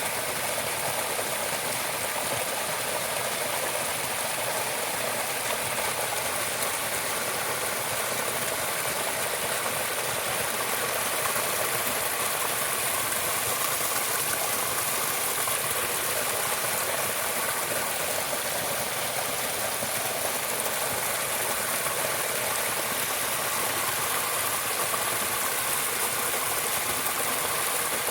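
Steady nature ambience: an even, unbroken hiss, brightest in the high range, with faint steady tones running through it.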